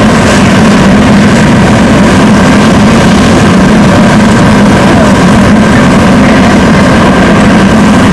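A heavy engine, likely a fire apparatus at the scene, running steadily with a constant low hum.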